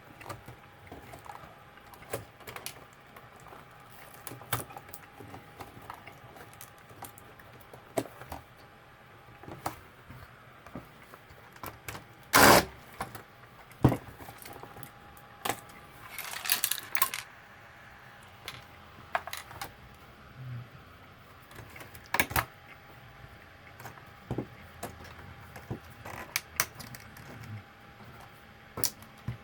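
Small plastic and metal parts of a label maker clicking and clattering as it is taken apart by hand, with a few louder rattles now and then.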